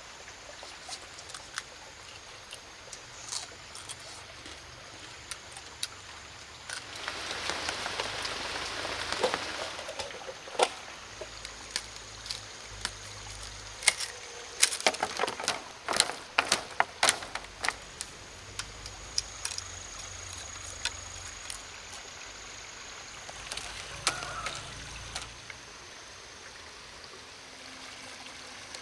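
Water trickling and pouring, with a louder rush of water about seven seconds in. A quick run of sharp knocks and clicks follows midway, and single clicks are scattered throughout.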